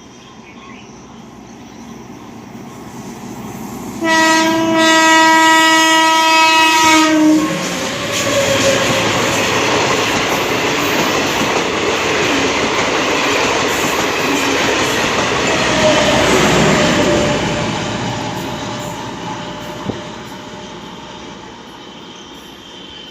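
MEMU electric multiple-unit train approaching and giving one steady horn blast of about three seconds, about four seconds in. It then passes close by with loud running and wheel clatter, which fades as it moves away.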